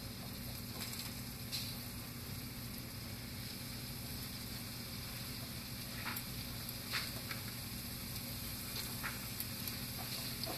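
Fruit lumpia frying in shallow hot oil in a skillet: a steady sizzle, with a few light clicks scattered through it.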